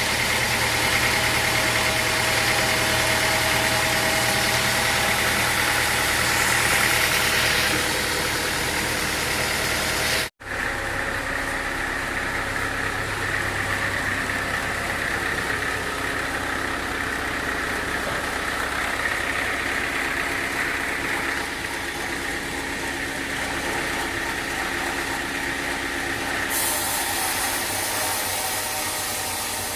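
Sawmill machinery running steadily, like an idling engine. The sound cuts out abruptly about ten seconds in and resumes at once with a slightly different pitch.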